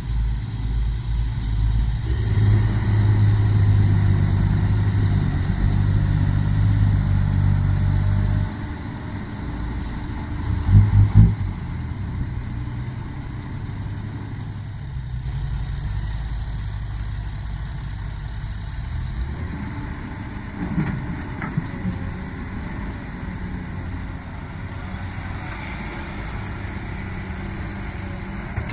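Komatsu PC200 excavator's diesel engine running while digging, loud for the first eight seconds or so, then settling to a lower steady level. A brief loud burst about eleven seconds in.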